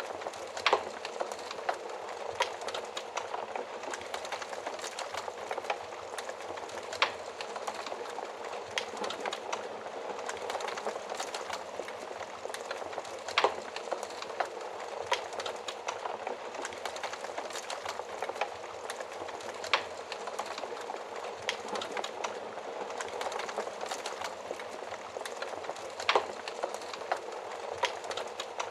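Wood fire crackling: a steady hiss of burning with irregular sharp pops every few seconds.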